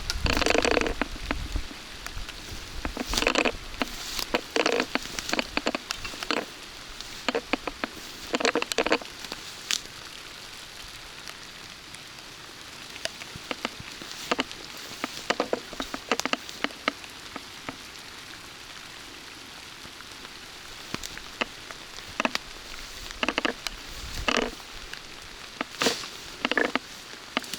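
Steady rain, with irregular clusters of sharp close taps and crackles over the even hiss.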